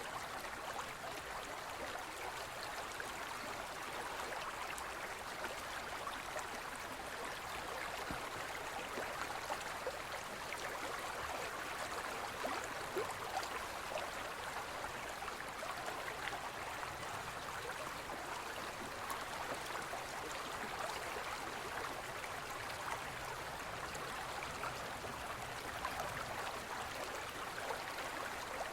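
Forest stream flowing and babbling over rocks: a steady rush of water with small splashes and gurgles flickering through it.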